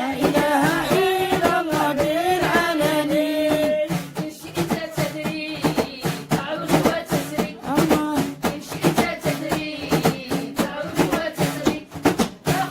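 Devotional dhikr singing with percussion: a voice sings a wavering melodic line for the first few seconds, then a steady run of percussive beats takes over under the singing.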